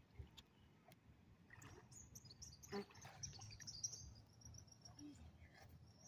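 Near silence with faint, high bird chirps for a couple of seconds starting about two seconds in, and one soft knock near the middle.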